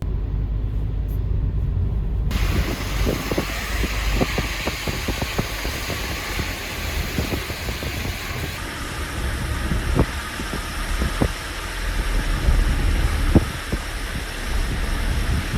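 A car on the move: a steady low rumble of engine and tyres, with a hiss of wind or road noise joining about two seconds in and a few scattered knocks.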